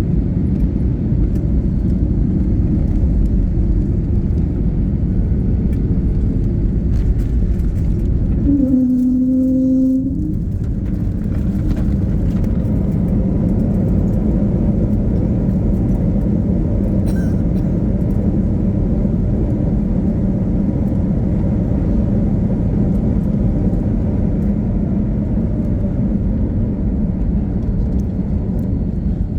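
Jet airliner cabin noise during the landing: a loud, steady rumble of engines and airflow. About nine seconds in, the rumble drops out briefly while a short low hum sounds, then resumes a little quieter.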